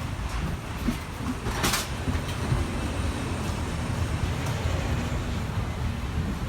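Steady low rumble of a parked airliner during boarding, with scattered light knocks and a short hiss about a second and a half in.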